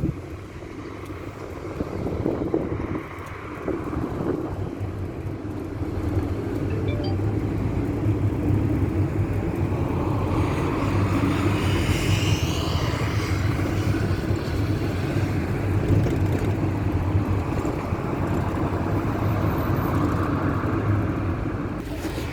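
Cabin noise inside an old Ford route-taxi minibus on the move: a steady engine and road rumble with a low hum. It gets louder a few seconds in and then holds steady.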